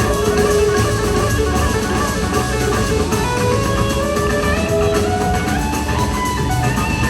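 Live blues-rock band playing an instrumental passage: an electric guitar lead line climbs in pitch over the middle of the passage, backed by drums and bass.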